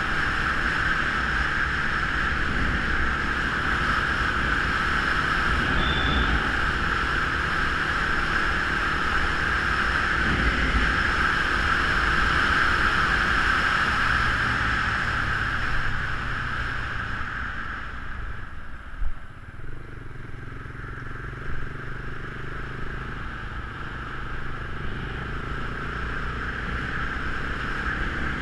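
Geon Scrambler 250 motorcycle being ridden: the engine runs under a steady rush of wind and road noise. The noise eases off about two-thirds of the way through.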